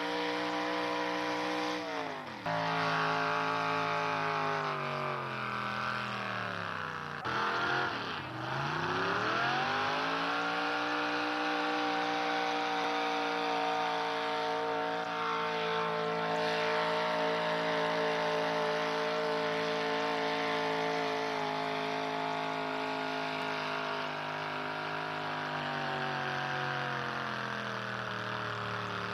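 Pulling truck's engine running hard at high revs. Its pitch drops sharply about two seconds in, dips deeply and climbs back around the eight-second mark, then holds high before falling away near the end.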